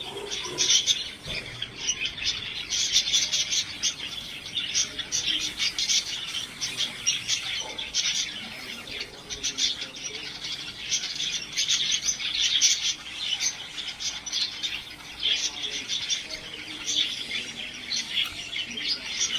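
Budgerigar chatter: a continuous stream of rapid, high chirps and warbles.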